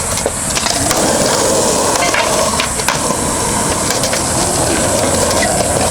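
Skateboard wheels rolling on concrete, a steady rumble from about a second in, with a few sharp clicks. Behind it a cicada chorus buzzes high and constant.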